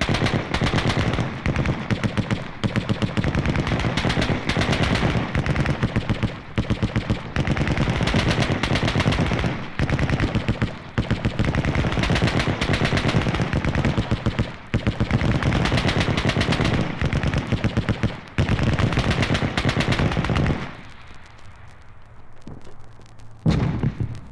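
Machine-gun fire in long, rapid bursts with short breaks between them. It falls away to a quieter stretch near the end, then one more burst starts.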